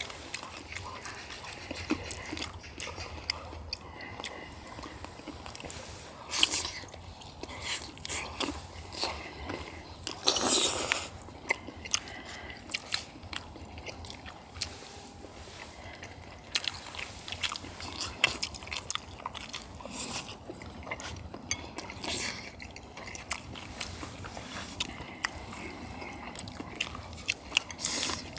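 Close-miked eating: people chewing and biting mouthfuls of spicy braised chicken and baby octopus, with irregular wet smacks and clicks and a louder burst about ten seconds in.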